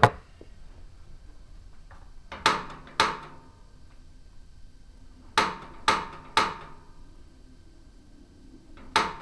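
Sharp clicks with a short metallic ring, mostly in pairs about half a second apart and repeated several times: repeated attempts to spark the pilot of a gas fireplace that will not light, with air still in the gas line.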